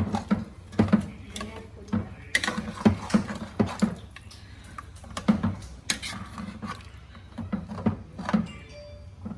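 A spoon stirring watery curry in a cooking pot, scraping and knocking against the sides at an uneven pace.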